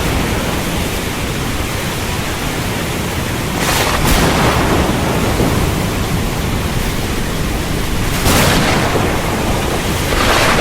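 Heavy rain falling in a steady hiss, with brief louder surges about four and eight seconds in and again near the end.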